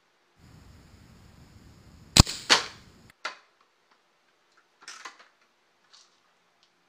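RWS 54 Air King .177 spring-piston air rifle firing once: a sharp crack about two seconds in, followed a moment later by a second loud report. Afterwards come a few metallic clicks and a short rattle as the rifle is handled.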